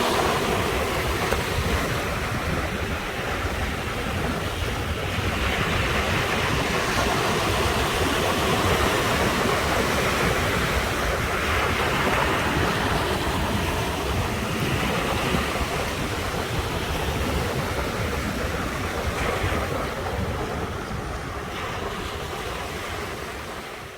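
Sea waves surging and washing ashore in a continuous rush of surf, swelling louder every few seconds and easing off near the end.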